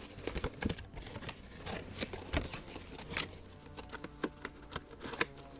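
Scattered light clicks and taps of a boxed figure statue and its plastic and cardboard packaging being handled.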